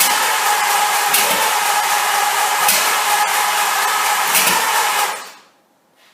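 The starter of a 1929 Essex cranking the engine on a start attempt: a loud, steady mechanical whirr with a faint knock about every second and a half, cutting off sharply about five seconds in.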